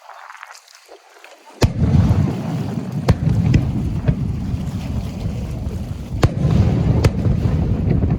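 Aerial fireworks going off: a sharp bang about a second and a half in, then a continuous low rumble of shell bursts and their echoes, with more sharp cracks through it.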